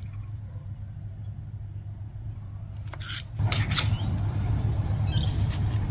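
A steady low hum that grows louder a little past halfway, with a few light clicks and rubbing sounds of parts being handled.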